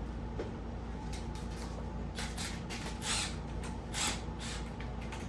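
Hand work on truck parts: a few short scrapes and rustles over a steady low hum.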